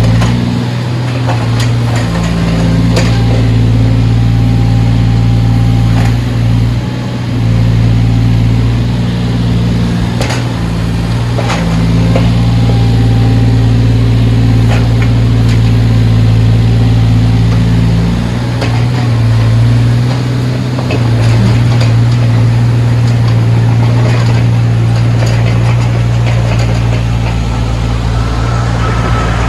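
Backhoe's diesel engine running steadily at working revs, with a few sharp knocks from the machine at work.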